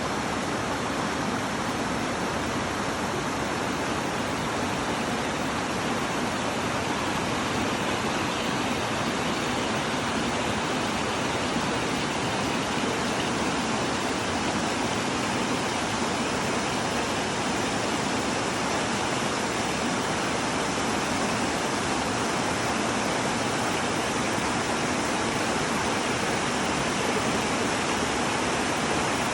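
Steady rushing of a mountain stream, water running over rocks and small rapids.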